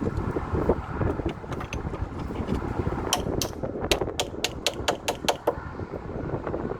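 A quick run of about ten sharp knocks or taps, roughly four a second, in the middle, over wind noise on the microphone.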